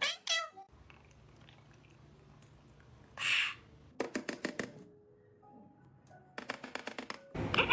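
A parrot's short pitched call, then a brief harsh rasp about three seconds in. Quick runs of sharp clicks follow about four seconds in and again near the end.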